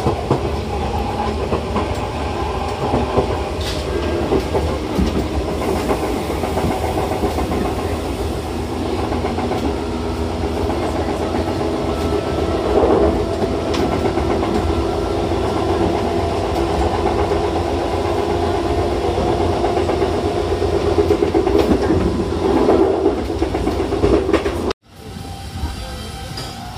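A 6050 series electric train running, heard from inside the cab: a steady rumble with a whine of several steady tones on top. Near the end the sound cuts abruptly to a much quieter rumble.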